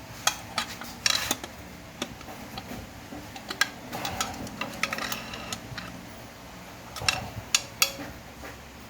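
Scattered metallic clicks, taps and short scrapes of a tool prying and pulling a part out of a Ford 5R55S automatic transmission during teardown, in bunches about a second in, through the middle, and near the end.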